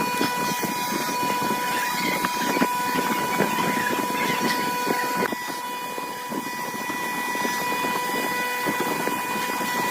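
Electric woodworking power tool running at steady speed with a high, even whine over an uneven noisy rasp. The whine shifts slightly about five seconds in.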